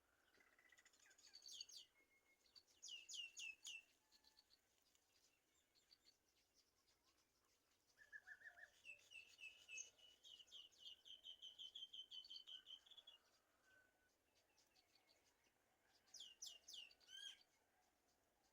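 Faint bird chirps: clusters of quick, high, downward-sweeping notes, and in the middle a run of about a dozen rapid, even chirps.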